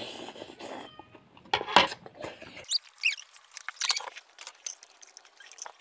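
Close-up eating sounds of chewing crispy fried food, fried fritters and fried noodles: a run of quick clicks, crackles and mouth smacks, with a couple of short squeaky chirps about three seconds in.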